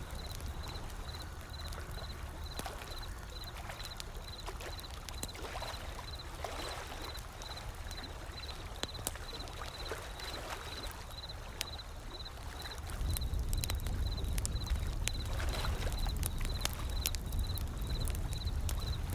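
Wood fire crackling with sharp pops over the steady wash of ocean waves; the low surf grows louder about two-thirds of the way through. A faint, even high ticking repeats about three times a second underneath.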